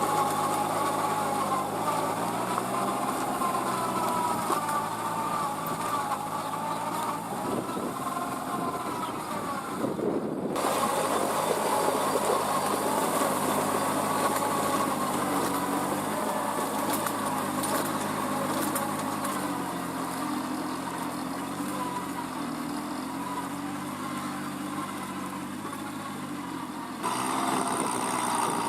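Kubota B2441 mini tractor's three-cylinder diesel engine running under working load, its pitch rising and falling as the load changes, with abrupt changes in the sound about ten seconds in and again near the end.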